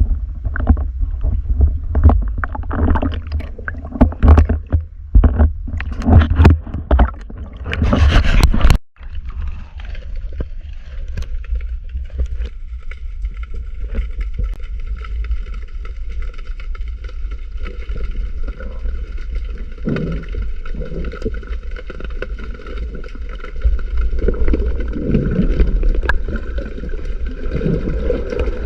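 Water noise picked up by a camera during a dive: for the first nine seconds loud irregular splashing and knocks, then after an abrupt break a steady muffled low rumble with a faint steady whine above it and a few soft surges.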